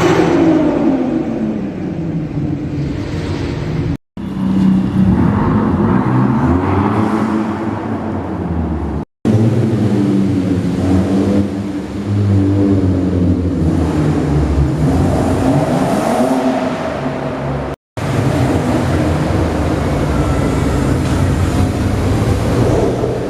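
Car engines revving and accelerating away one after another, in four short clips cut together; the engine pitch climbs and falls with each rev and gear change.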